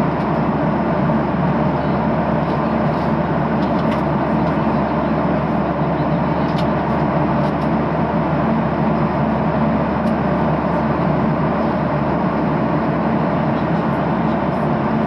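Steady cabin noise of a Boeing 737-800 in flight: the whoosh of air over the fuselage mixed with the low drone of its CFM56-7B turbofan engines, unchanging throughout, with a few faint ticks high up.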